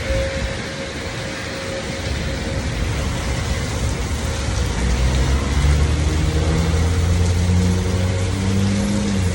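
Heavy rain hissing steadily, with a car engine that rises in pitch as it accelerates from about five seconds in.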